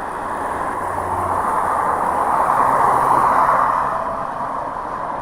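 A road vehicle passing, its engine and tyre noise swelling to a peak about three seconds in and then easing off.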